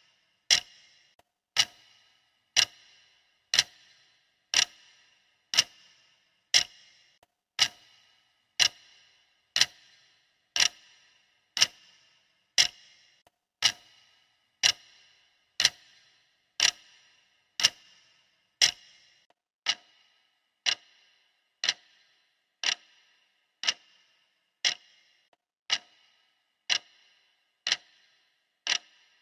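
Clock ticking steadily at one tick a second, each tick a sharp click with a short ring; the ticks become a little softer about two-thirds of the way through.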